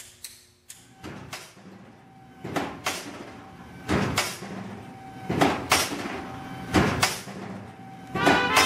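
Wooden Russian pull toy being worked: its carved figures strike in quick pairs of sharp wooden knocks, a pair about every second and a half. Music comes in near the end.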